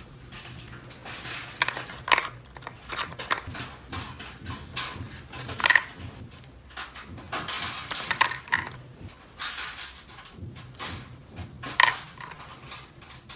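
Small plastic toy pieces being handled, with irregular light clicks and clatter and a few louder clacks about two, six and twelve seconds in.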